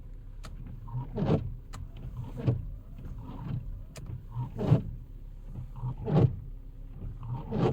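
Avantech hybrid windshield wiper blades squeaking loudly across the glass on the faster wiper speed, one short squeal per stroke, about six in all, over a steady low hum. The blades have made this squeak since about two months of use.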